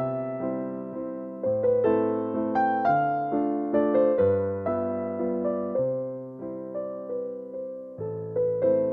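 Soft piano music: a slow melody of single notes that ring and fade, over low bass notes that change about every two seconds.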